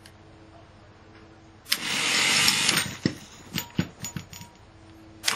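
The Worx 36V cordless mower's electric motor, switched straight from the battery by a plain on-off switch, runs loudly at full speed for about a second and then stops on release, followed by a few sharp clicks. It starts again at the very end.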